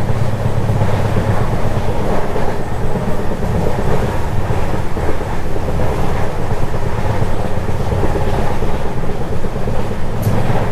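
Express passenger train running at speed, heard from an open coach door: a steady rumble and rattle of the wheels on the rails.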